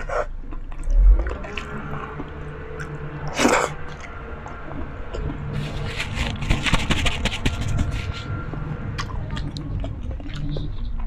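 Close-miked chewing and crunching of food, with sharp crackles that come thickest in the middle of the stretch and a louder single bite or crunch a few seconds in.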